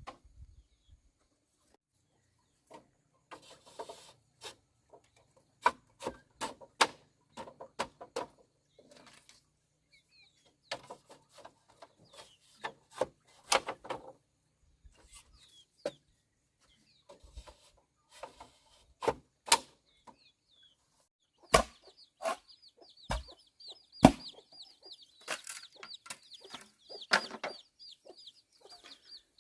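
Chickens clucking among irregular sharp knocks and clacks. About two-thirds of the way in, a high, wavering chirping starts up and keeps going.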